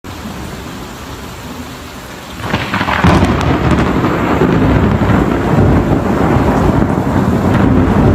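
Heavy rain pouring down. About two and a half seconds in, it swells into a much louder, dense rumble that holds steady.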